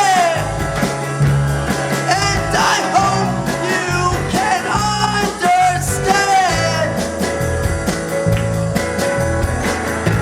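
Rock band playing live: a singer's voice over guitar and a steady bass line, the singing stopping about seven seconds in and leaving the guitar and bass playing on.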